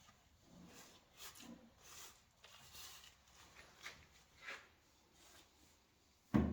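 Faint scattered rustling and light clicks of parts and tools being handled, then one louder, dull thump near the end.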